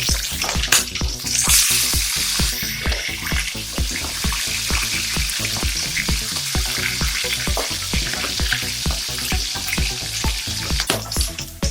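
Pieces of spotted dove meat frying in hot oil in a pan, a steady, dense sizzle.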